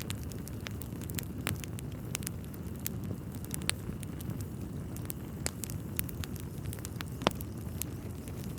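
Wood fire crackling in a fireplace: irregular sharp pops and snaps of burning logs over a low, steady rumble, with two louder pops, one near the middle and one about seven seconds in.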